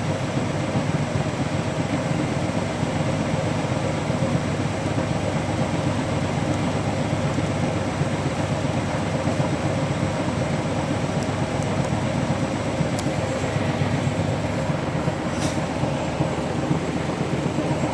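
Hotpoint washing machine on its spin, the drum and motor running with a steady hum and rush.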